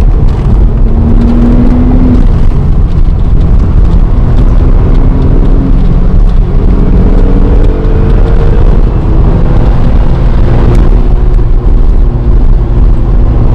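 The Audi RS4 B5's 2.7-litre twin-turbo V6, fitted with a Milltek exhaust, pulling hard while driven. Its pitch climbs, drops back and climbs again several times as it shifts up, over a heavy low rumble of road noise.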